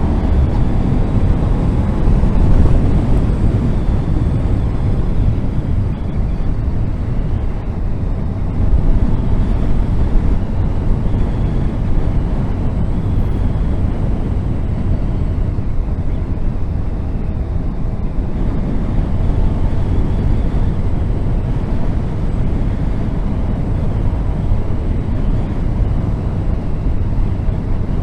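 Honda VFR1200F motorcycle's V4 engine running on the move, heard from on board with heavy wind rumble on the microphone; the engine note rises briefly at the start as it accelerates.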